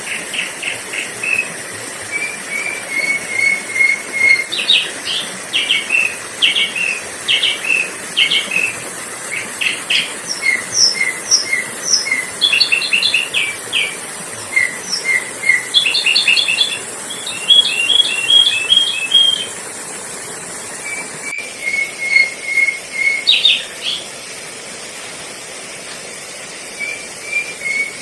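Sooty-headed bulbul (kutilang) calling: quick runs of short, clipped chirping notes and rattling clusters, repeated with brief pauses, over a steady high hiss. These are lure calls used to draw in wild bulbuls.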